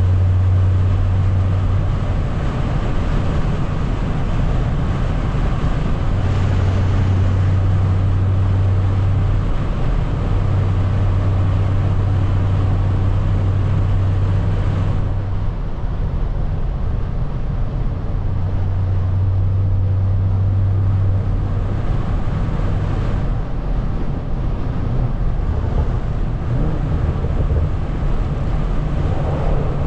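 Straight-piped, big-turbo BMW 340i inline-six running at a steady cruise under road and tyre noise. A low exhaust drone swells in and drops away in stretches of a few seconds.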